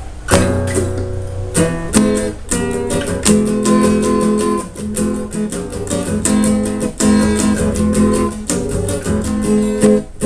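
Acoustic guitar strumming chords in a steady rhythm, a song intro without singing, beginning with a strong strum just after the start.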